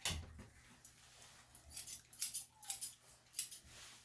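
Grooming scissors snipping a dog's coat. There are several quick, sharp snips in the second half, after a quiet start.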